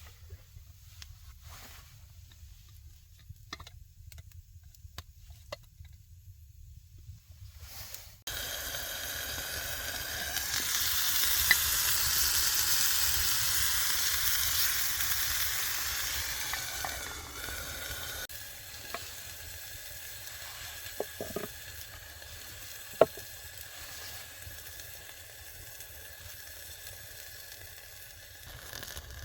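Food frying in a hot pan. After a quiet start with a few small clicks, a loud sizzle starts suddenly about a third of the way in and is strongest for several seconds. It then settles to a softer steady sizzle with a couple of sharp pops.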